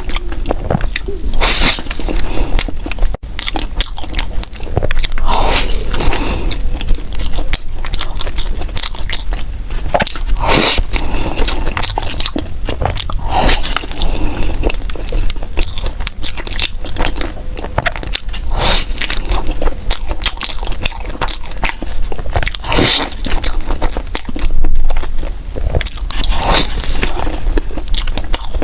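Close-miked eating: biting and chewing with wet, crackly mouth sounds, with a stronger bite or crunch every few seconds.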